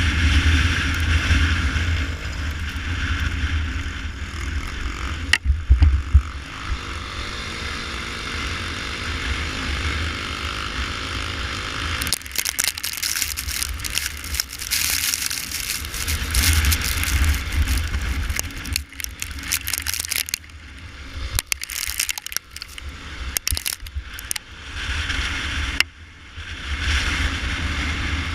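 Honda Tornado 250's single-cylinder four-stroke engine running while the motorcycle is ridden, under a heavy rushing noise with rattles and knocks that come and go in the second half.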